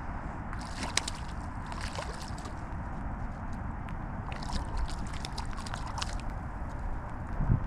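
Wind buffeting the microphone in a steady low rumble, with water sloshing and a few scattered light clicks.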